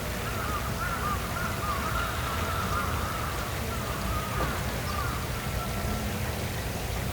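Nature ambience by water: a steady low rush, like flowing water, under a run of short, quick warbling calls from a bird or frog, several a second, in the first half. A single falling call follows a little later.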